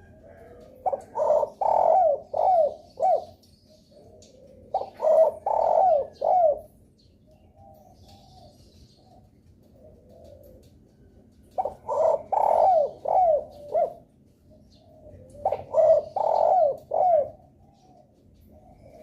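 Derkuku (spotted dove) cooing: four phrases of four or five rhythmic coos each, with quiet gaps between them. It is a lure call used to set other derkuku calling.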